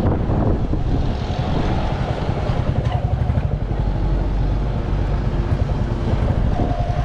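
Royal Enfield Classic 350's single-cylinder engine running on the move, with a steady, rapid exhaust beat.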